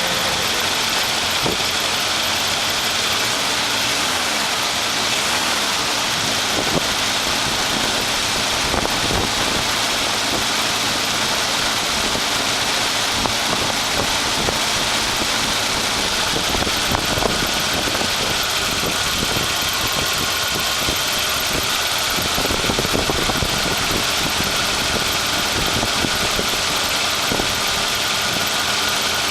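1968 GMC 3500's 327 V8 running steadily at a slightly raised idle while warming up after a cold start.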